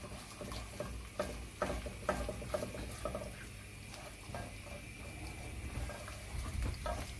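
Eggs frying in a little oil in a pot, with a faint sizzle, while a utensil stirs and scrapes them into a scramble in short, irregular knocks and scrapes.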